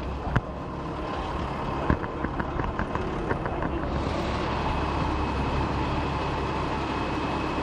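Diesel engines of rally trucks running at a start line, with a sharp knock about half a second in, another near two seconds, and a quick run of light clicks after it. The engine noise swells and grows fuller from about four seconds in.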